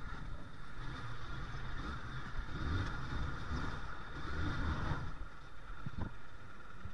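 Hero motorcycle engine running through city traffic, with wind noise from riding. The low engine sound swells and eases every second or two as the throttle changes.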